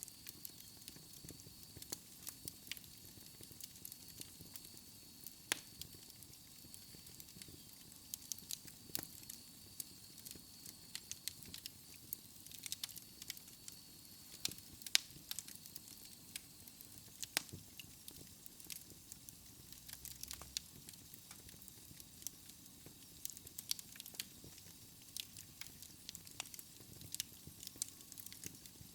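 Fireplace fire crackling, with irregular sharp pops and snaps over a soft steady hiss. A faint high whistle runs through about the first half, and the loudest pop comes about halfway through.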